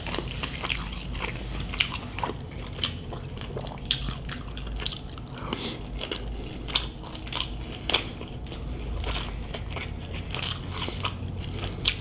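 Chewing a mouthful of deep-fried crispy pork belly (lechon kawali) with rice, with irregular sharp crunches of the crackling several times a second.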